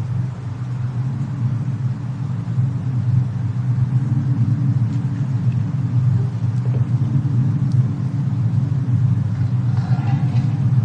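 Steady low rumble of a fireplace-and-snowstorm ambience, with faint scattered fire crackles on top and a small cluster of crackles near the end.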